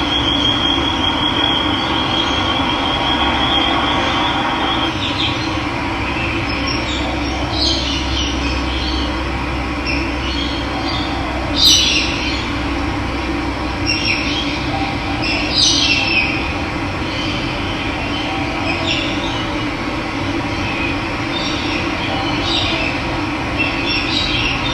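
Running water with birds calling over it: a high, steady trill for the first few seconds, then scattered short chirps.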